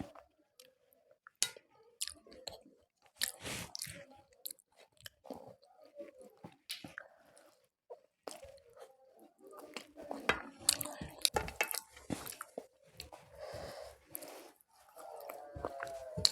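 A person chewing and biting food close to the microphone, with irregular crunches and clicks and short pauses between mouthfuls.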